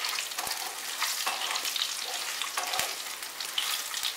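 Potato chunks sizzling and crackling as they fry in hot mustard oil in a wok. A wooden spatula stirs them and knocks against the pan a few times.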